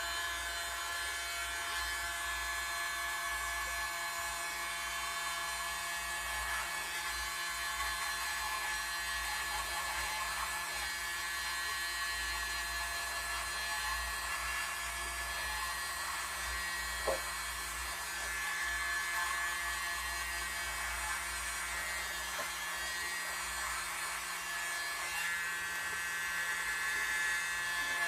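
Small electric air blower running steadily with a high motor whine, blowing acrylic paint out from the centre of a Dutch pour. One brief tick sounds a little past the middle.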